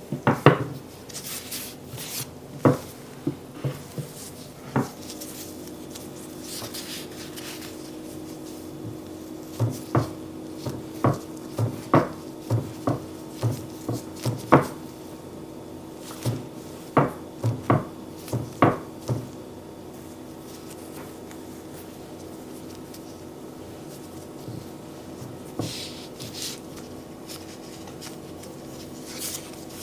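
A series of knocks and taps from handling baking utensils and dough. The knocks come close together in a fairly even run from about ten to nineteen seconds in, over a faint steady hum.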